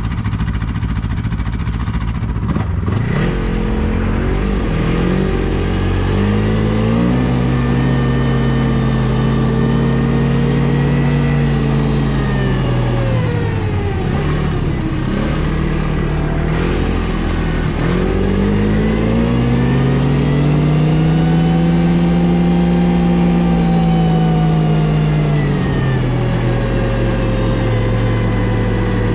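Ski-Doo GSX 600 H.O. snowmobile's two-stroke twin engine under way, revving up a few seconds in and holding. It drops back around the middle, then climbs and holds again before easing off near the end.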